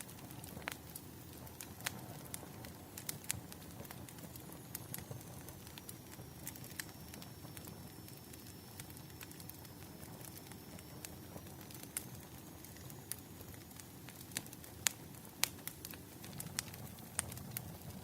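Burning firewood crackling: irregular sharp pops over a low steady rumble, with a cluster of louder pops near the end.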